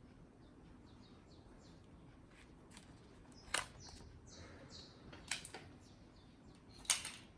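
Quiet workbench handling: four sharp clicks, a single one a little over three and a half seconds in, a quick pair a couple of seconds later, and the loudest near the end. Faint bird chirps run underneath.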